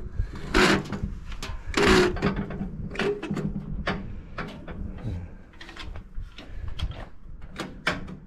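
Irregular metal clicks, knocks and scrapes of the sliding weights and beam of an old beam weighing scale being moved, with two louder scraping slides about half a second and two seconds in.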